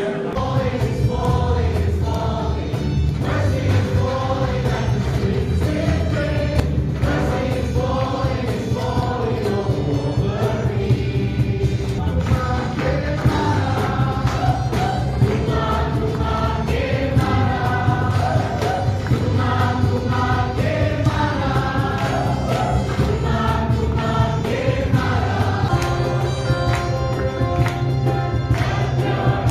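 Choir singing a gospel-style song with instrumental accompaniment.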